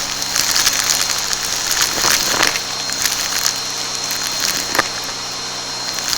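Vacuum cleaner running with a steady motor hum and high whine, with irregular crackling as debris is sucked up, strongest about two seconds in and again near five seconds.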